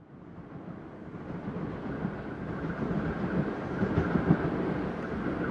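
NSW 86 class electric locomotive approaching with a train, its rumble on the rails growing steadily louder, with a few sharp clicks partway through.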